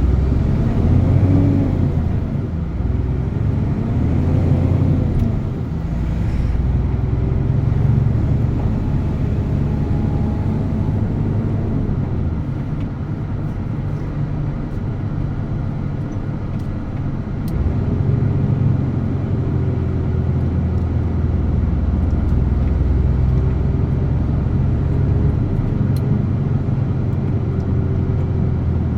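DAF truck's diesel engine running on the move, a low rumble whose pitch rises and falls over the first few seconds, then steadier, growing louder again about two-thirds of the way through.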